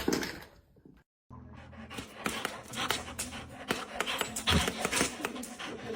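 A dog panting rapidly, about three breaths a second, beginning after a brief silence about a second in.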